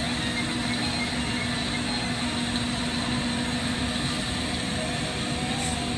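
Steady rushing roar of a glassworking torch flame, with a low steady hum underneath.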